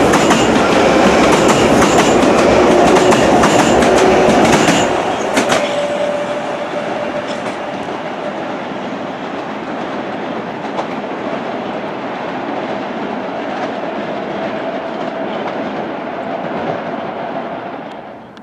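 Long Island Rail Road train passing, its wheels clicking over the rail joints for the first few seconds, then the rumble receding and fading away near the end.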